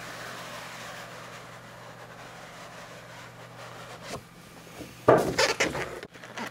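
Apple TV cardboard box being handled and opened: a soft, steady rubbing, a light knock about four seconds in, then a louder scraping rustle of packaging near the end.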